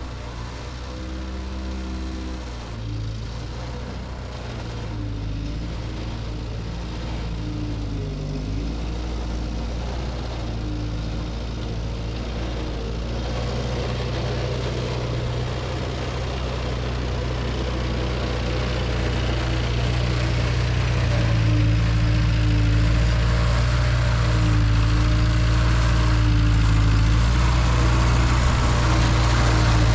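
Ford 9N/2N tractor's four-cylinder flathead engine running steadily while pulling a Ferguson cultivator through the soil, getting louder as it comes closer.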